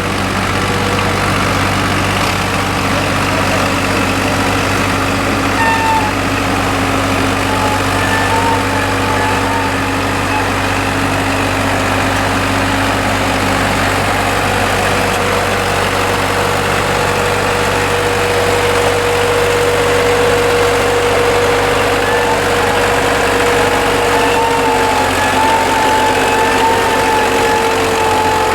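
Tractor diesel engine running steadily, with a wavering whine that comes and goes.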